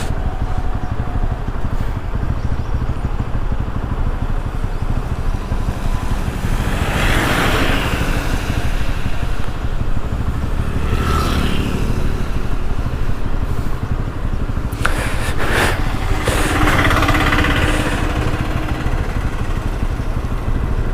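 Bajaj Pulsar NS200's single-cylinder engine running steadily while riding in traffic, with two swells of rushing noise about a third of the way in and again near the end, and a couple of short sharp clicks in between.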